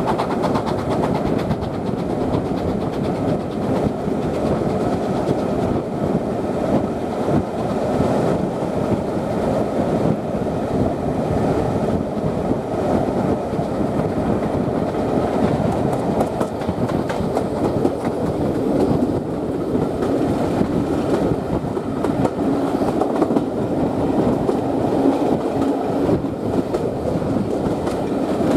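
Carriage of a moving train heard from an open window: the steady rumble of its wheels running on the track.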